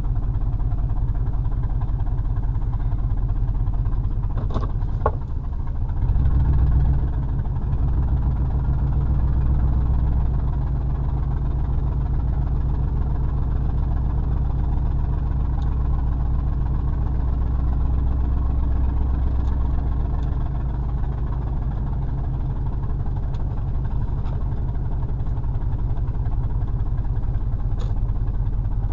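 Pickup truck engine heard from inside the cab, a steady low hum. A couple of clicks come about five seconds in, then the engine grows louder as the truck pulls away, and it settles back to a steady run.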